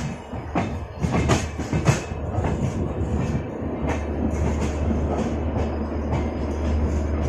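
Passenger train running on the rails, its wheels clattering over rail joints in a run of sharp clacks during the first couple of seconds, then settling into a steady low rumble.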